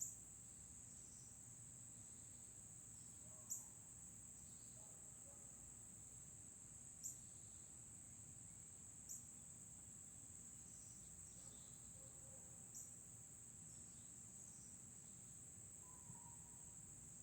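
Steady high-pitched drone of insects, faint and unbroken, with a few faint clicks from parts being handled.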